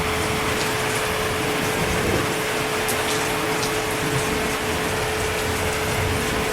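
Steady heavy rain: a dense, even hiss with a few faint sharp drips, over a steady low hum.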